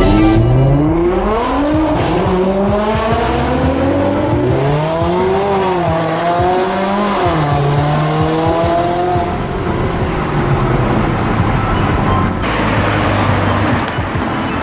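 A sports car engine accelerating hard, its pitch climbing for several seconds, then dropping and climbing again as it shifts up through the gears.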